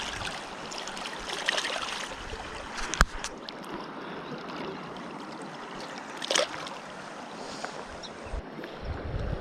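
Steady rush of a flowing mountain river, with a single sharp click about three seconds in and a short louder burst around six seconds. Low wind rumble on the microphone near the end.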